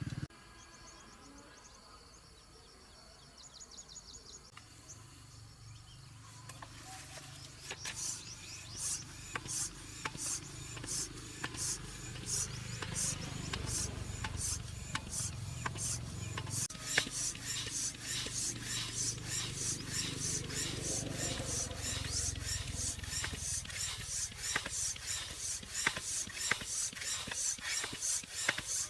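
Rhythmic rubbing strokes by hand, about two a second, faint at first and steady from about seven seconds in.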